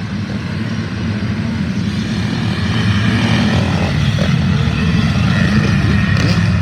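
A pack of motocross bikes running hard, the engine sound getting louder over the first few seconds and then holding strong.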